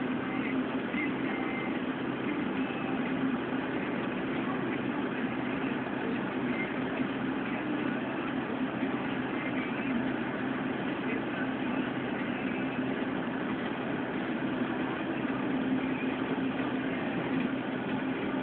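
Steady engine hum and road noise of a vehicle being driven, continuous and even throughout.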